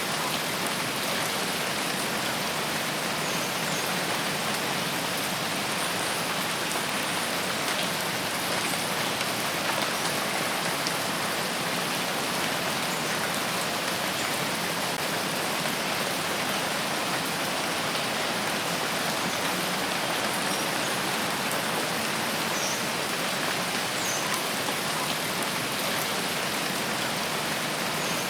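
Steady rain falling: an even, unbroken hiss of countless drops that holds at one level throughout.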